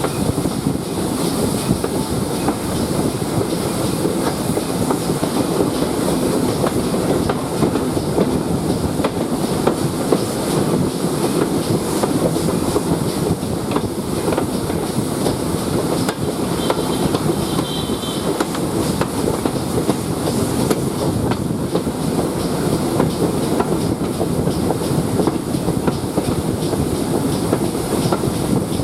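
Railway coach running along the line: a steady rumble with the clickety-clack of wheels over rail joints. A brief faint high pulsing tone sounds about halfway through.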